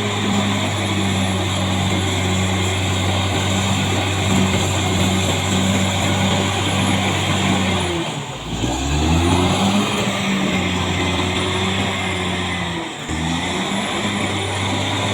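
Caterpillar D6R XL bulldozer's diesel engine running steadily under load. About eight seconds in its pitch sags sharply and climbs back as the engine lugs and recovers, with a shorter dip near the end.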